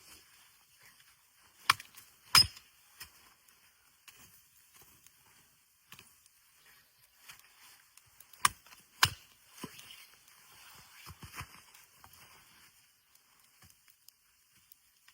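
Sharp knocks in two pairs, one pair about two seconds in and another about eight and a half seconds in, with a few lighter knocks and faint rustling between.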